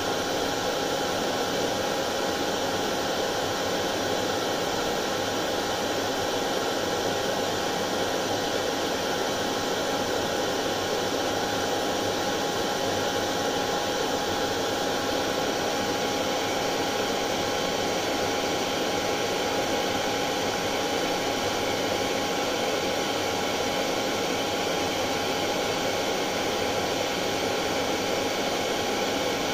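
Hair dryer running continuously at one steady setting: an even rush of blown air with a steady whine on top, unchanging throughout.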